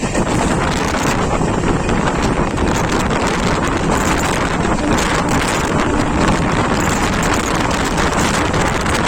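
Steady rush of wind on the microphone over the running noise of a train at speed, with scattered faint clicks.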